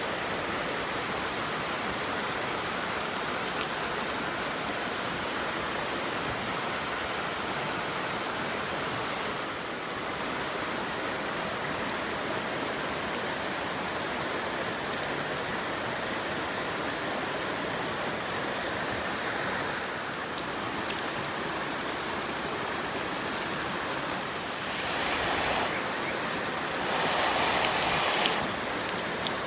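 Chicken wings sizzling in butter and olive oil in a frying pan over a campfire: a steady hiss with a few light clicks, flaring louder twice near the end.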